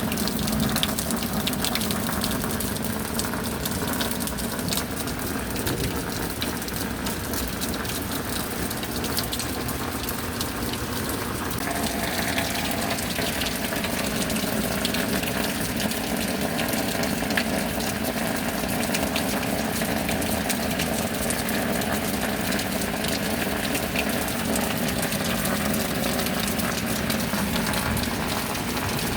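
Steady rain with water gushing and running. Its tone thickens a little about twelve seconds in.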